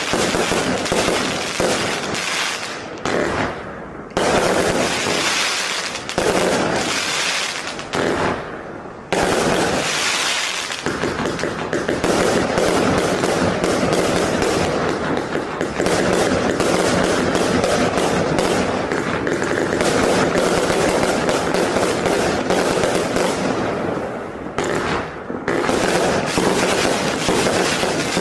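Vivid Pyrotechnics 258-shot 20mm compound firework cake firing rapid, near-continuous volleys of shots and bursts with crackle. There are brief lulls about 4, 6 and 9 seconds in and again near the end.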